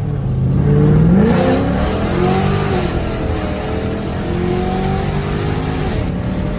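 Car engine accelerating: its pitch climbs through the first second or so, eases off, rises a little again around two seconds in, then runs on steadily.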